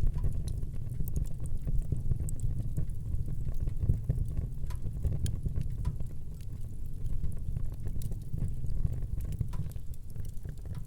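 Wood fire burning in a fireplace: a steady low rush of flame under scattered, irregular sharp crackles and pops.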